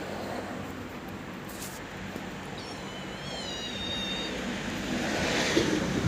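Cat meowing once, a high, drawn-out call of about a second and a half that rises and then falls, over a steady low rumble.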